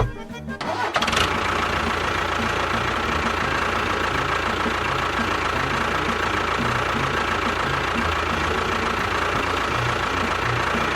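A small motor running steadily with a constant whine, starting about a second in and stopping at the end.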